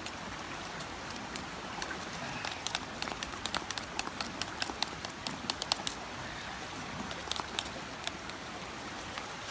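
Scotch pancake batter being stirred in a metal pot, the utensil clicking sharply and irregularly against the sides, busiest in the middle, over the steady rush of a river in flood.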